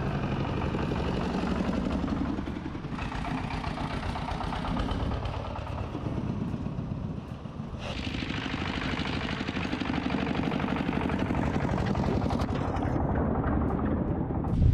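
Small engine running steadily, with a fast, even pulse and no change in speed.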